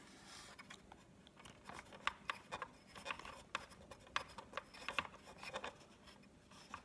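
Faint, irregular small clicks and scratches of a screwdriver driving small screws into the plastic body of a Big Mouth Billy Bass singing fish.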